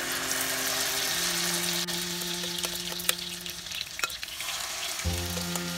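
Grated potato hash-brown mixture sizzling in hot vegetable oil in a nonstick frying pan as spoonfuls are dropped in, with a few light clicks of the spoon against the pan.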